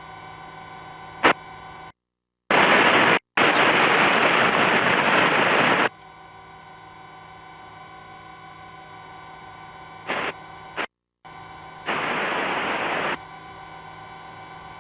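Helicopter cabin drone heard through the headset intercom, a steady hum with fixed tones. It is broken by a sharp click about a second in, two brief total cutouts, and loud bursts of radio static hiss: one about three seconds long, short ones around ten seconds, and one of about a second near the end.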